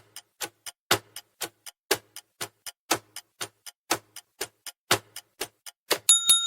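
Countdown timer sound effect: a clock ticking, about four ticks a second with a louder tick each second. Near the end a bright double ding rings on as the time runs out.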